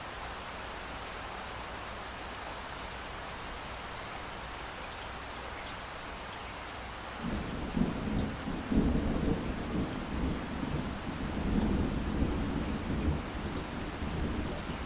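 Steady rain hiss; about seven seconds in, a low rumble of thunder starts suddenly and keeps rolling and swelling over the rain.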